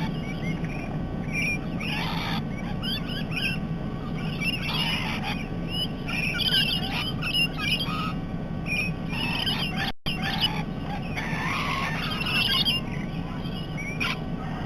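A flock of parrots calling: a constant twitter of short chirps, broken every few seconds by louder, harsh squawks, over a steady low background rumble.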